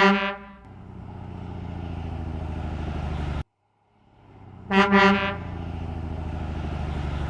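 Truck horn honks, followed by a truck engine running with a steady low rumble that slowly builds. The sequence cuts off abruptly about three and a half seconds in and starts again: rumble, then a second horn honk about five seconds in, and more engine rumble.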